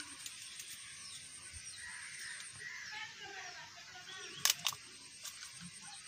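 Faint bird chirps and calls, broken by two sharp clicks close together about four and a half seconds in.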